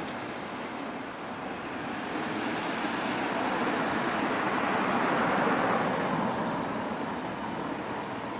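Electric train passing through the station, its running noise building to a peak about five seconds in and then fading as it goes by.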